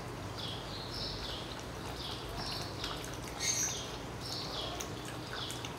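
Small bird chirping over and over in short, high, falling notes, about two a second.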